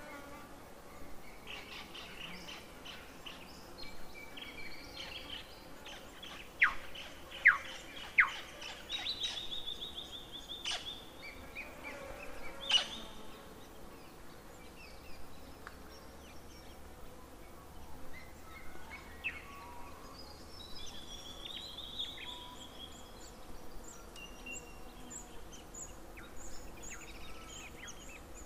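Birds calling over a faint steady background: scattered chirps and trills, with three loud, sharp falling calls in quick succession about seven seconds in. Quieter trills and high thin chirps follow later on.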